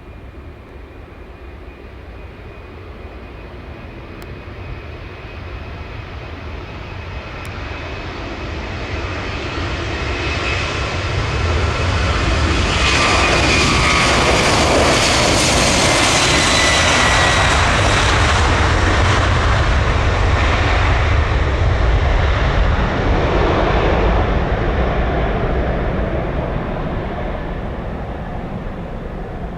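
Boeing 767-300ER's twin jet engines at takeoff power passing by: the sound builds steadily for about twelve seconds, peaks with a whine that falls in pitch as the plane goes past, then slowly fades.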